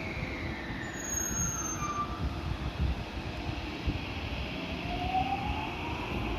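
JR West 223 series 2000 electric train running on the rails with a steady low rumble, its traction motor whine falling in pitch over the first two seconds and rising again near the end.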